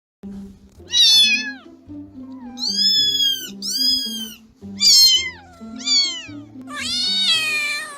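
Domestic cat meowing about six times, each call arching or falling in pitch, the last one longer. Light background music plays under it.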